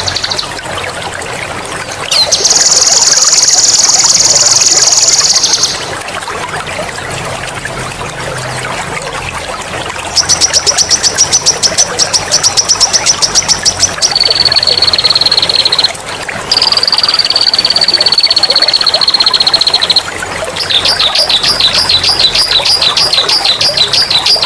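A songbird singing long, loud rolling trills ("ngerol"), each lasting a few seconds with short pauses between, some a rapid pulsed rattle and some a smooth trill that falls slightly in pitch. Water trickles steadily underneath.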